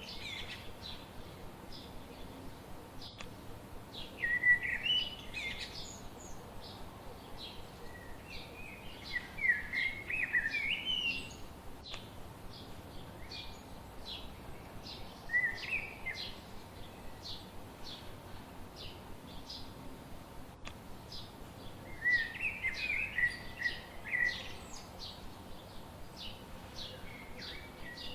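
Songbirds singing: short warbled song phrases every few seconds over a steady, rapid series of short high chirps.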